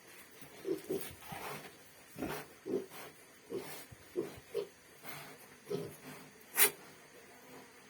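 Pigs grunting in a string of short, separate grunts, with one sharper, louder call about six and a half seconds in.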